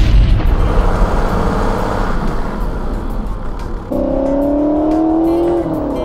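A loud explosion sound effect of dynamite going off, its heavy rumble dying away over about two seconds. About four seconds in, a steam-train whistle sounds a chord for under two seconds, sagging in pitch as it ends.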